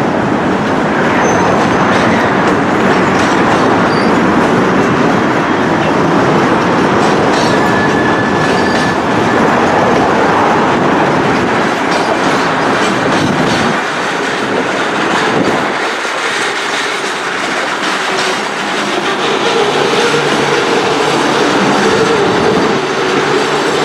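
Freight cars of a long mixed manifest train rolling past: a steady rumble of steel wheels on rail with clickety-clack over the joints. A steady low tone joins in about three-quarters of the way through.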